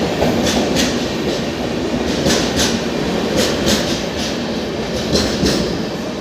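Passenger train rolling through the station, its wheels clacking over the rail joints in pairs of quick clacks over a steady rumble.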